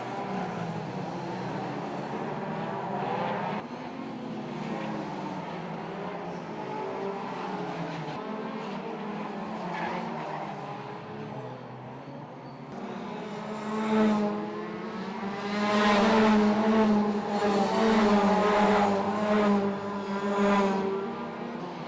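2-litre hot rod race cars' engines running hard around an oval track, the engine notes shifting as the cars lap. Past the halfway point the cars come close and get much louder, with several loud passes near the end.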